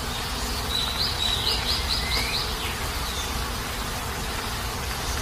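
Heavy rain falling steadily, an even hiss. About a second in, a bird chirps a quick run of rising notes, about five in a row, with a few more single calls after.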